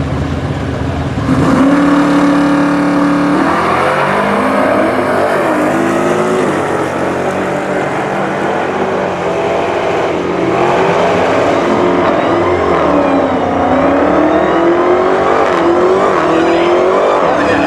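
Drag-racing muscle car V8 engines at full throttle: held at a steady high pitch for about two seconds at the line, then launching and climbing in pitch, with repeated drops as they shift up through the gears.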